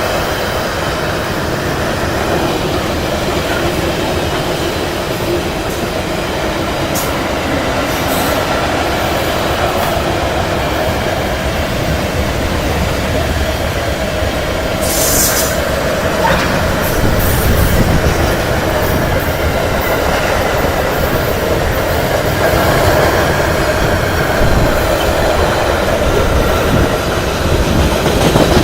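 Iron-ore freight train's wagons rolling past in a steady rumble and clatter, with brief high-pitched wheel squeals, the loudest about halfway through.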